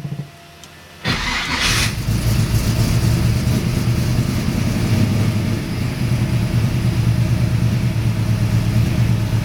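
Blueprinted 383 V8 in a 1962 Chevrolet Nova II being started cold: a brief crank, then the engine fires about a second in with a quick rev and settles into a steady, pulsing idle.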